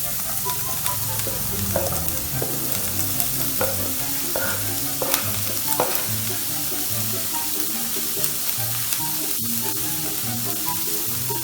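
Chopped onion and capsicum sizzling steadily as they sauté in hot oil in a pan, stirred with a few sharp taps and scrapes against the pan.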